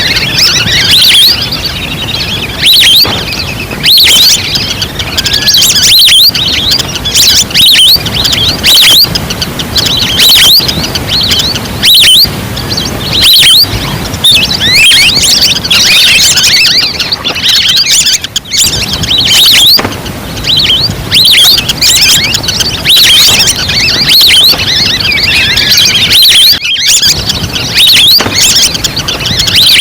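Recorded calls of a flock of ducks played as a hunting lure call: many high, squeaky whistles and chirps overlapping, coming in loud surges every second or two.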